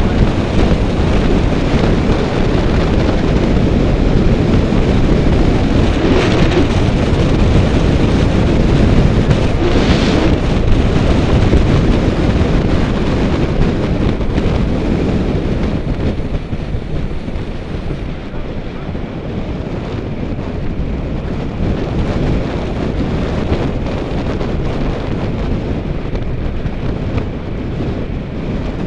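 Wind rushing and buffeting over the microphone of a camera moving at riding speed on a group bicycle ride, a loud steady rumble that eases somewhat about two-thirds of the way through.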